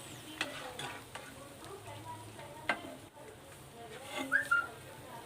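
Food frying in hot oil in a pan, a faint steady sizzle, with a metal spoon clinking against the pan a handful of times as the pieces are stirred and lifted out.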